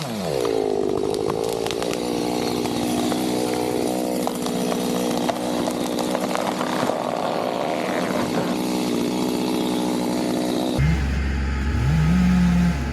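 Gas chainsaw running at full throttle, its pitch dipping at the start and then holding steady as if under load in a cut. About eleven seconds in the sound changes abruptly and the saw revs up again.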